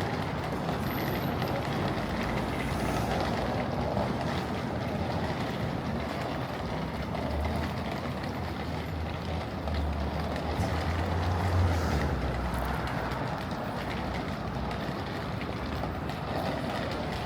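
Street traffic noise, with the low engine rumble of a heavy vehicle swelling through the middle and fading again.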